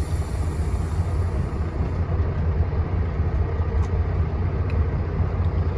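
Toter home truck's engine running with a steady low rumble as the truck creeps forward in a queue.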